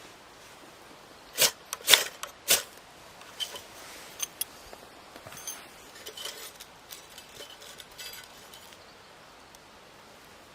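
Dry wood cracking and snapping: three loud sharp cracks in quick succession, then lighter scattered clicks and snaps that die away near the end.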